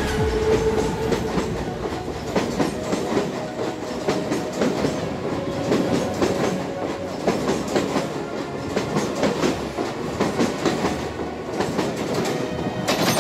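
Bombardier EMU suburban local train running past the platform, its wheels clattering over rail joints in a fast, uneven run of clicks, with a faint steady hum at times.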